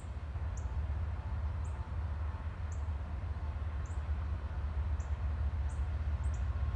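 Low rumble of a distant freight train's diesel locomotives approaching, growing slowly louder, with a bird's short high chirps repeating about once a second.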